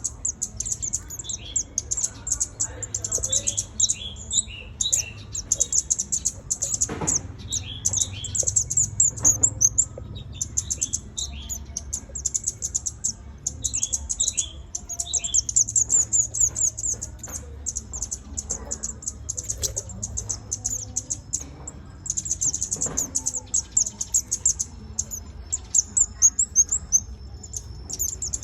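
Red-whiskered bulbul calling in short groups of quick falling notes, repeated every few seconds. Underneath runs a constant high-pitched rapid chattering trill.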